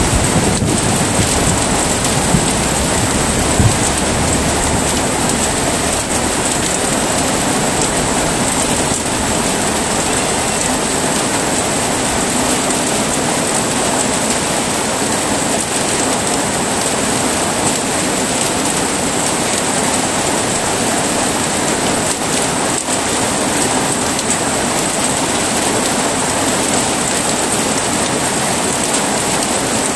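Heavy rain falling steadily, with a low rumble of thunder dying away in the first few seconds.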